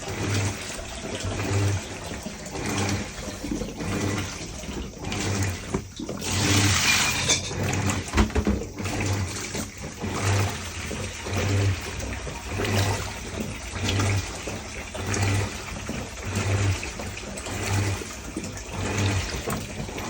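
Washing machine agitating a load in water: the motor hums in short pulses about every second and a quarter as it drives the drum back and forth, with water sloshing throughout.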